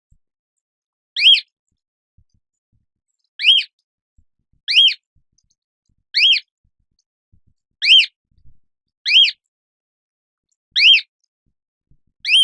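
Cockatoo calling repeatedly: about eight short, shrill calls, each rising then falling in pitch, one every second or two.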